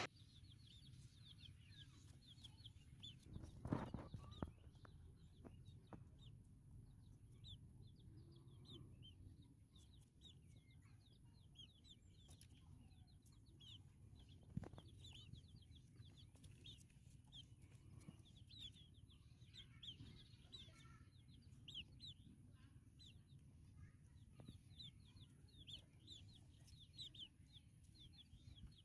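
Faint, quick high peeps from white-breasted waterhen (dahuk) chicks, repeated over and over. A thud about four seconds in and a sharp click about halfway through.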